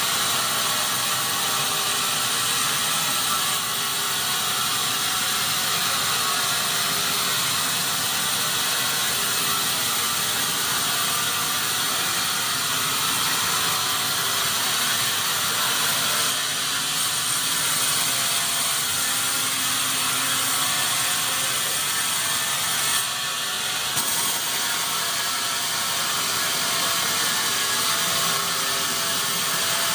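Sawmill machinery running steadily, a continuous mechanical noise with a brief dip about three-quarters of the way through.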